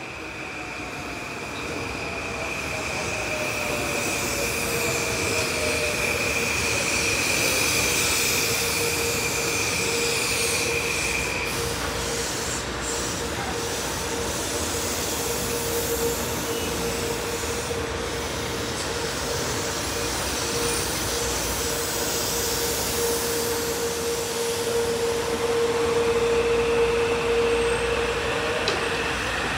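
Metro-North M8 electric multiple-unit train running past on the tracks with its wheels squealing. A high steady squeal stops about twelve seconds in, while a lower steady squeal carries on throughout.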